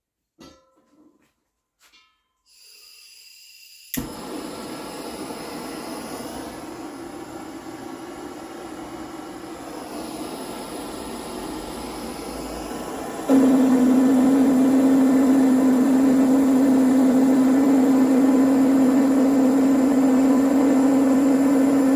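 Electric workshop power tool running with a steady motor hum and noise, after a few light clicks. It starts abruptly about four seconds in and steps up to a louder, lower-pitched steady hum about thirteen seconds in.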